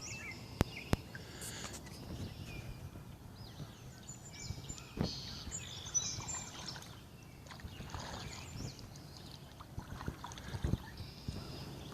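Sounds of a kayak drifting: two sharp knocks near the start and a few more later, typical of a paddle or gear bumping the hull, over quiet water movement. Small birds chirp throughout.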